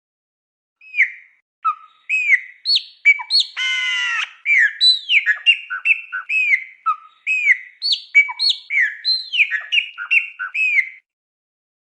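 A songbird singing a fast, varied song of short slurred whistled notes, most falling in pitch, with one harsher note about four seconds in. The song starts about a second in and cuts off suddenly near the end.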